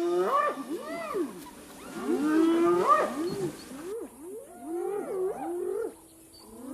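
Spotted hyenas calling, a run of overlapping cries that swoop up and down in pitch, with a brief lull near the end.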